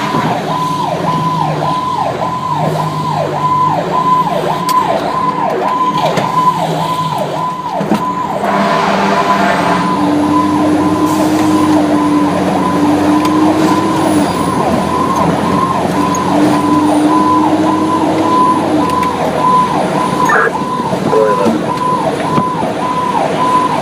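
Fire apparatus siren running in a fast repeating falling yelp, about two sweeps a second. In the middle it gives way to a dense blast and two long, steady, lower tones, then the yelp resumes.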